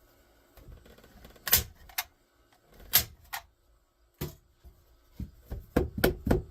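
Hammer striking wood: a few separate blows, then a quick run of about three blows a second from about five seconds in.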